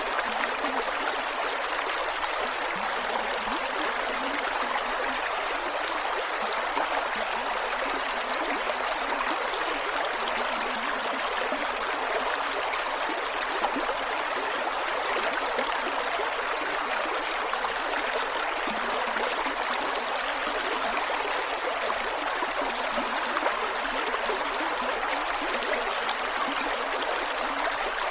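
Creek water flowing and gurgling over rocks, a steady rushing babble with fine, constantly shifting trickles and splashes.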